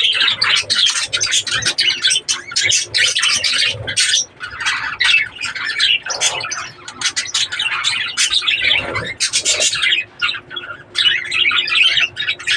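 A flock of budgerigars chattering: many rapid chirps and squawks overlapping without a break.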